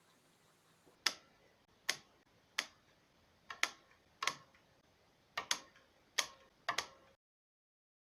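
About ten sharp taps or clicks at an uneven pace, some in quick pairs, each ringing briefly. The sound cuts off suddenly near the end.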